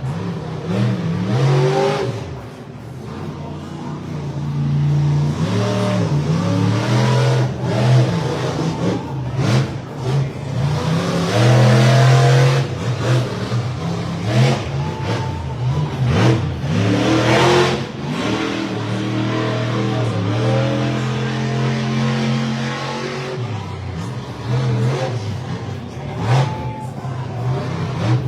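Monster truck engine revving hard, its pitch climbing and dropping again and again through a freestyle run, with several loud bursts in the middle stretch.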